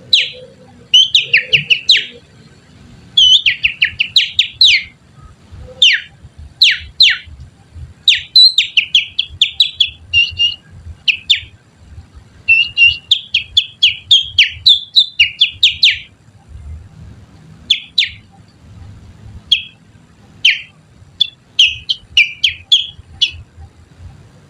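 Finger whistling that imitates the song of a kutilang (sooty-headed bulbul): several rapid runs of short, sharp, downward-sliding whistled notes, separated by brief pauses.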